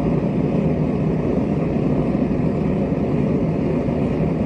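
Gas forge burner running with a steady, even rushing noise as its air intake is being opened up toward fully open.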